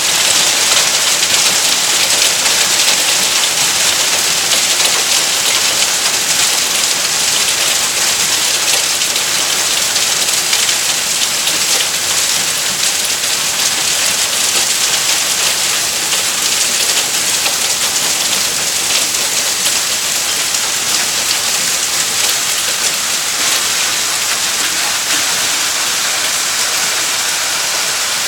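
Hail storm: hailstones falling heavily in a dense, steady clatter of countless small impacts, a little softer toward the end.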